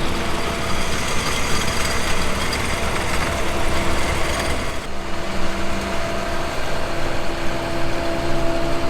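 Heavy snow groomer engine running steadily at idle, with a steady low drone; the mix shifts about five seconds in.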